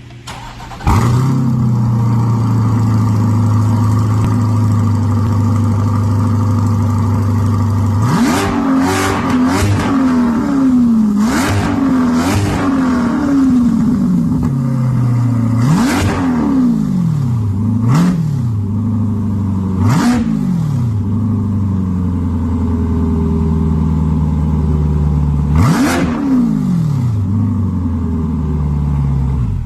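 Corvette C8 Stingray's 6.2-litre LT2 V8 through a center-exit exhaust: it starts about a second in, runs at a steady idle, then is blipped repeatedly from about eight seconds in, with quick bursts of revs and single revs that fall back to idle.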